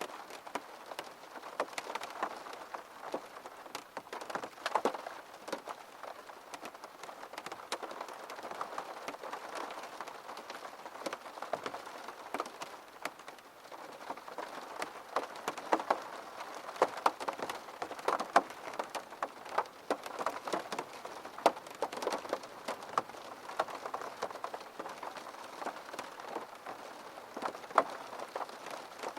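Steady rain, with many distinct close drops tapping on a surface over an even hiss.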